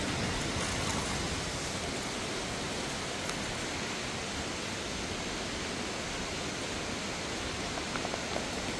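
Waterfall and water flowing over rocks, a steady rushing hiss.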